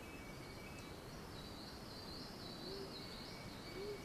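Faint cloud-forest ambience with bird calls: a wavering high trill through the middle, a steady thin high tone underneath, and two soft, short, low rising calls near the end.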